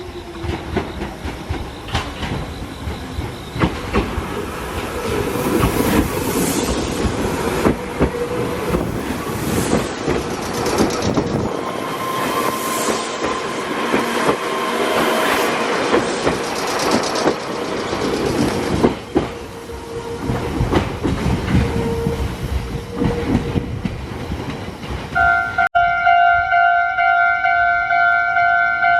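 Meitetsu electric train passing over the level crossing, its wheels clattering and clicking over the rails in a loud, steady rumble. After a sudden break about 26 seconds in, a level-crossing warning bell sounds as a steady electronic tone.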